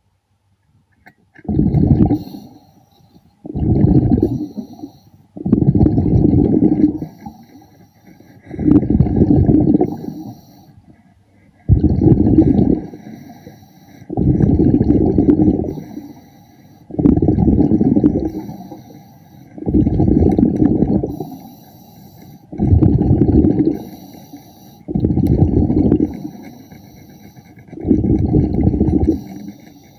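A diver's exhaled air bubbling out of the breathing regulator underwater, one loud gurgling burst of bubbles every two to three seconds in a steady breathing rhythm, with faint hissing and clicking between breaths.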